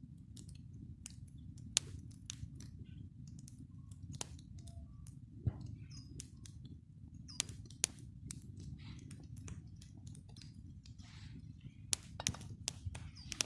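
Small wood campfire crackling: irregular sharp pops and snaps over a low steady rush, a few pops trailing a brief high hiss.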